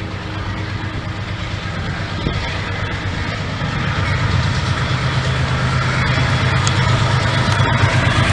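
Diesel locomotive engine running with a steady low drone, growing gradually louder as the train approaches.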